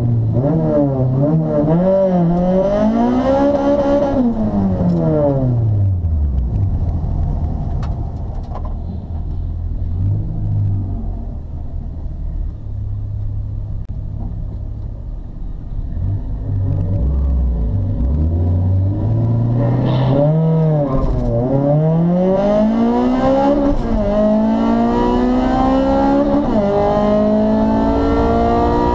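2000 Acura Integra Type R's 1.8-litre VTEC four-cylinder, heard from inside the cabin: it revs up and falls back, runs low and steady for several seconds, then pulls hard through the gears from about halfway, its pitch climbing and dropping back at each upshift.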